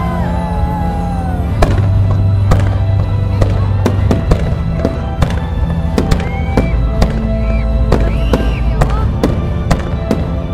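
Aerial fireworks bursting in quick succession, many sharp bangs often less than a second apart, over loud music with a heavy bass.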